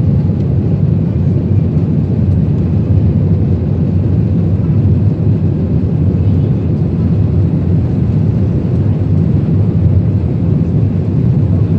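Jet airliner engines and airflow heard from inside the passenger cabin: a loud, steady, low rumble that holds even throughout.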